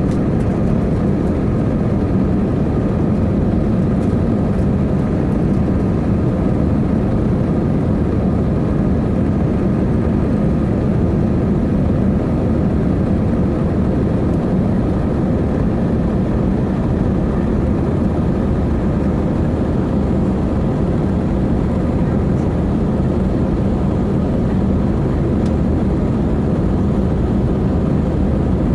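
Airbus A320 jet engines and airflow making a steady, unchanging noise, deep and rumbling with a faint humming tone.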